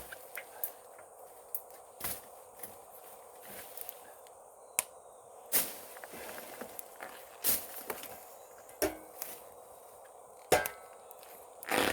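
Footsteps on a mountain path, irregular sharp steps about every one to two seconds, over a steady faint background hum.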